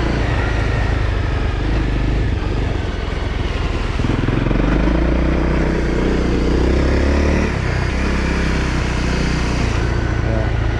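Honda CRF250L's single-cylinder four-stroke engine running on the move. It gets louder and climbs in pitch as the throttle opens about four seconds in, then eases back a few seconds later.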